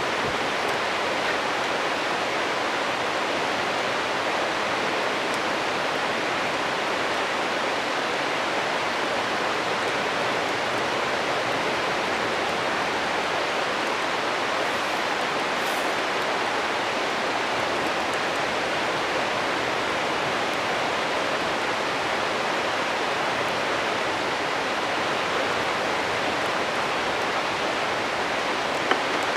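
Steady rushing of a flowing stream, with one short click near the end.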